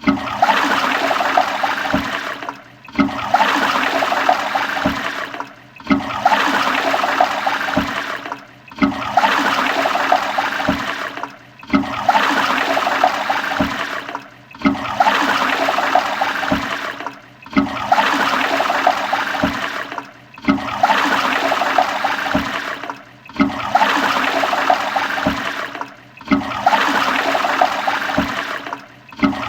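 Toilet flushing: a sudden rush of water with gurgling that fades and breaks off, repeated about every three seconds, ten times in a row.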